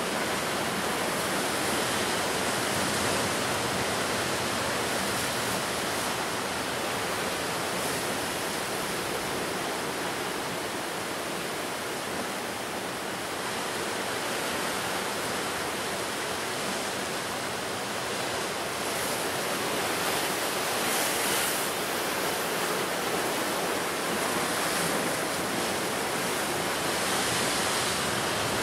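Ocean surf breaking and washing on the shore in a steady rush, swelling a little louder about two-thirds of the way through and again near the end.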